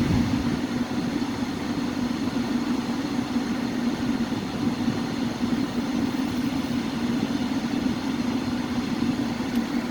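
Heater blower fan of a 2008 Ford Focus 2 running steadily at high speed, a hum with an even rush of air. Its motor has been freshly cleaned and lubricated, and it runs without the squeak or whistle it had before.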